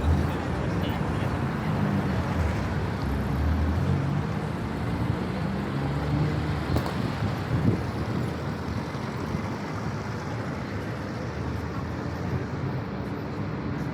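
Steady city street traffic noise from passing cars, with a low engine hum that is strongest in the first half.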